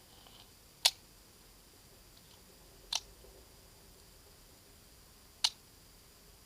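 Three sharp metallic clicks, a couple of seconds apart, from a USFA Zip 22 pistol's action as it snaps on a Remington Thunderbolt .22 round that will not fire: a misfire from a bad round.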